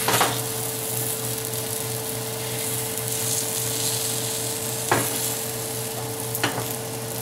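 Beaten eggs sizzling in butter in a steel pan as a spatula is worked around the edge of the setting omelette. A few short scrapes or knocks of the spatula against the pan come just after the start, about five seconds in and again about six and a half seconds in, over a steady hum.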